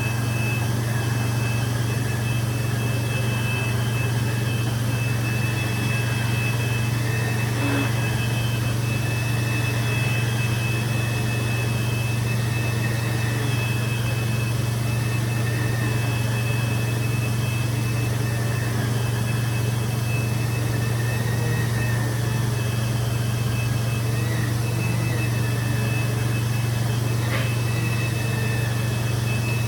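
Carpet-cleaning machine running steadily: a low hum with a high, even whine over it.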